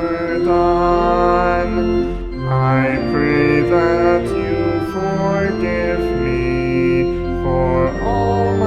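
Organ playing a hymn in sustained chords, the notes changing every half second to a second.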